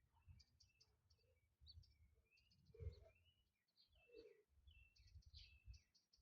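Faint bird chirps and twittering, short calls repeated in quick series with some notes sliding in pitch, over an uneven low rumble.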